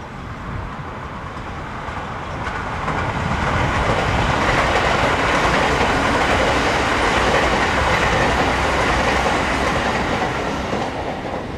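Tobu 70000 series electric commuter train passing: the running noise of its wheels on the track builds over the first few seconds, stays loud for about six seconds as the cars go by, then fades near the end.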